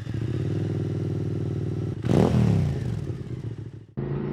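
QJ Motor SVT650X's V-twin with an Arrow Racetech slip-on exhaust idling steadily, then a single quick throttle blip about two seconds in that rises and falls back to idle.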